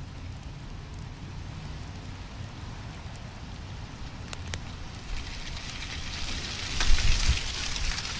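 Wood fire burning in a fireplace: a steady hiss with a low rumble and occasional sharp crackles, swelling louder for a couple of seconds near the end.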